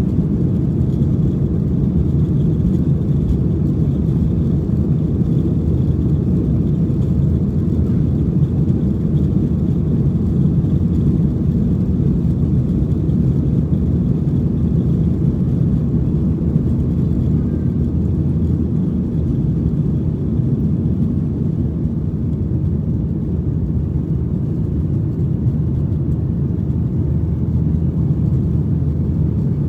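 Steady low rumble inside the cabin of a Boeing 737-800 from its CFM56-7B turbofan engines, with no marked change in pitch or loudness.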